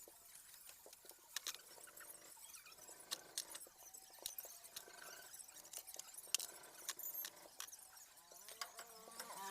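Faint, scattered clicks and taps of hand tools and parts being handled, with a few short squeaks.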